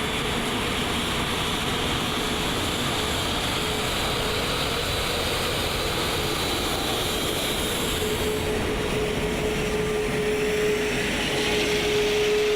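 Airbus A380 cockpit noise while taxiing: a steady rush of jet engines at idle and cockpit air, with a steady whine that grows louder in the second half.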